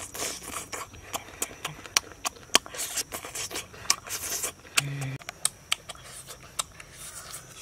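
Close-up eating sounds of a person biting and chewing sauced grilled beef off a skewer: irregular wet mouth clicks and smacks.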